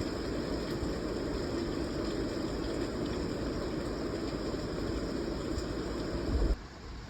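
Steady rain, a dense even hiss and patter, that cuts off suddenly about six and a half seconds in.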